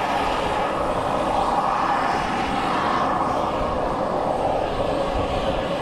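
Radio-controlled model helicopter in flight: a steady whine of motor and rotor blades, rising and falling gently in pitch as it moves about.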